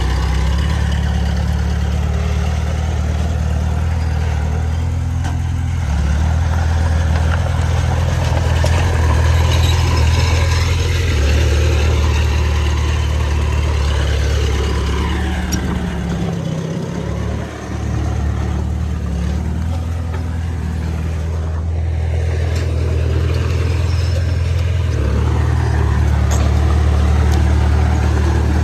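Heavy diesel engine of earthmoving machinery working under load. Its note rises and falls several times, with a brief dip about two-thirds of the way through.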